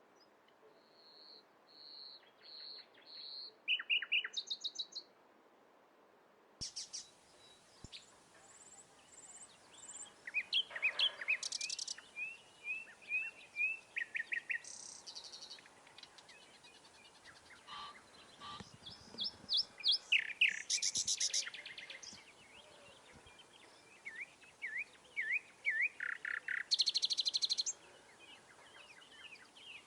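Several songbirds singing and calling: short repeated whistled notes, fast high trills, and runs of quick down-slurred chirps, coming and going in bouts over a faint background hiss.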